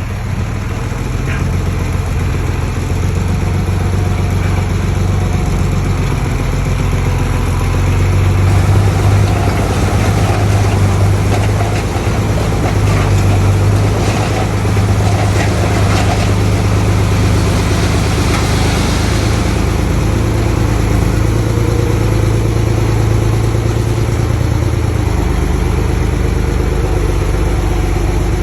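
Heavy diesel engine of earthmoving machinery running steadily with a deep, continuous hum, with a brief hiss about two-thirds of the way through.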